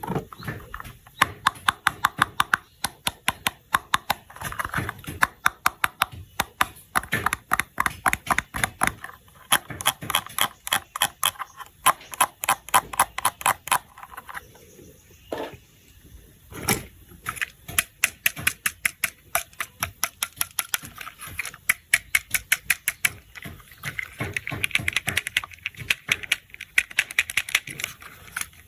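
Rapid runs of small plastic clicks and taps from toy train parts being handled and fitted together, with a short lull about halfway marked by two louder knocks.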